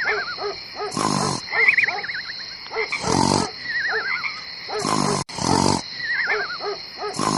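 Looped tiger sound effect: short growling roars repeat about every one and a half seconds, with a warbling, whistle-like tone between them and a steady high whine underneath.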